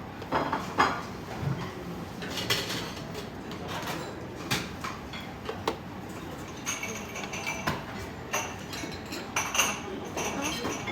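Dishes and cutlery clinking: a scattering of short clicks and clinks, with voices in the background.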